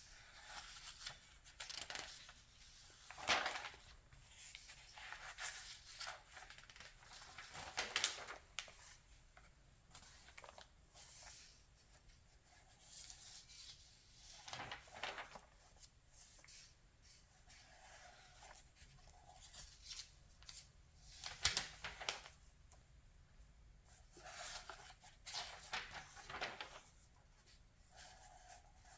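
Pages of a 1981 Redbook magazine turned by hand: short papery swishes and rustles every few seconds, with quieter paper handling between.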